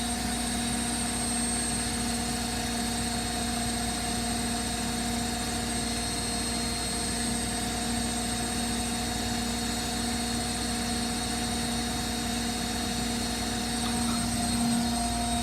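7 kg Hotpoint washing machine spinning its drum at 1400 rpm: a steady whirring hum with constant whining tones over it.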